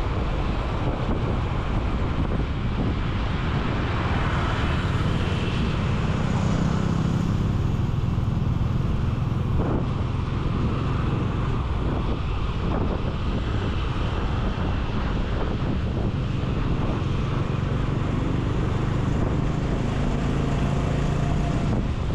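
Wind rushing over the camera microphone of a moving motorcycle, with a steady low engine hum underneath and a few light knocks.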